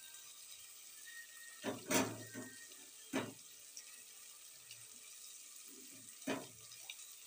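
Onion-tomato masala frying in mustard oil in an aluminium pressure cooker with a steady sizzle, while the spices are sautéed down. A few short scrapes of the spatula against the pot come about two, three and six seconds in.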